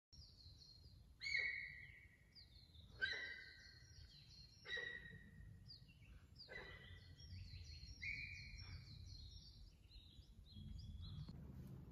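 Wild birds singing in a forest. One bird gives a loud call about every one and a half to two seconds, a sharp note that drops into a held whistle, over a run of quicker, higher chirps. A faint low rumble runs beneath.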